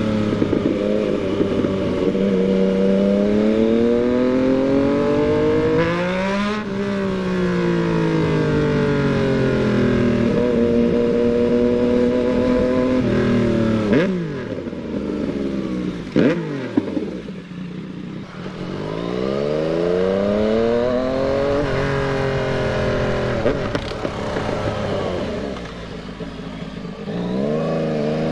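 Yamaha MT-09's inline three-cylinder engine pulling through the gears. Its pitch climbs under throttle and drops at each upshift, with a quieter stretch off the throttle about two-thirds of the way through before it picks up again.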